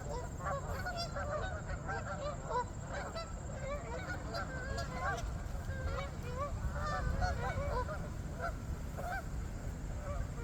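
Canada geese honking, many short calls overlapping throughout, over a steady low rumble.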